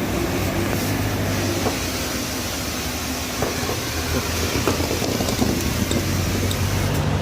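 Motor vehicle engine running steadily with a low hum, with scattered light clicks and knocks over it.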